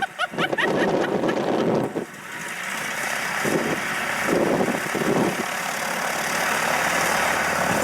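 Propeller aircraft engine running, growing steadily louder from about two seconds in.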